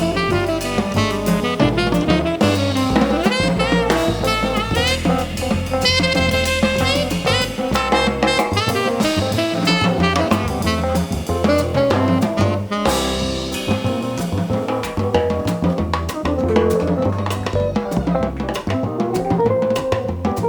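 Live jazz band playing: a saxophone melody over drum kit with cymbals and a walking low bass line.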